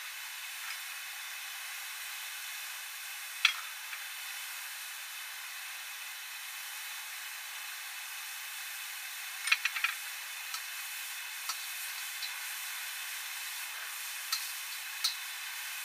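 Frog legs and lemongrass sizzling in a sauce in a wok: a steady hiss. Sharp metallic clicks of a stirring utensil against the wok break through it, a quick cluster about halfway and two more near the end.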